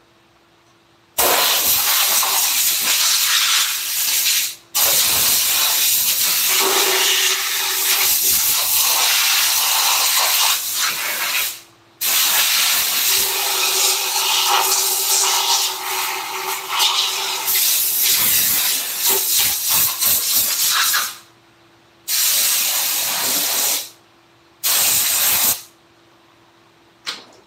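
Compressed air hissing from a hand-held air gun in trigger-controlled bursts, six of them lasting from about one second to nine seconds each, with a brief puff near the end. The hiss wavers in tone as the stream plays over a surface.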